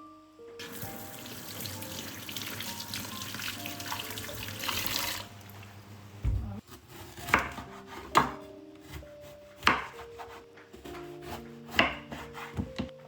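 A water tap runs for about four and a half seconds and is then shut off. Several sharp knocks and clinks follow.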